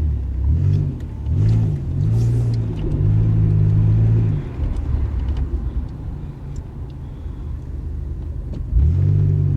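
Car engine revving up and down several times in quick succession, then dropping back to a low rumble before its pitch rises again and holds steady near the end.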